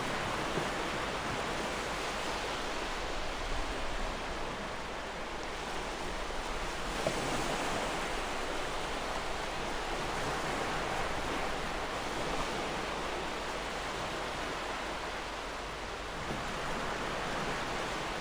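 Gentle ocean waves washing in, a steady hiss that swells and eases every few seconds.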